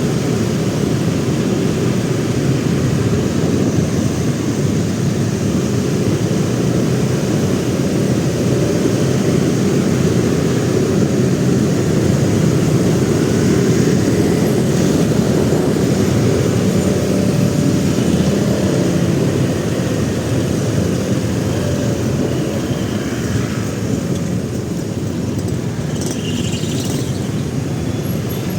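Steady low rumble of a motorcycle ride heard from an onboard camera: the bike's engine and wind on the microphone, amid city traffic. A brief higher-pitched sound cuts through near the end.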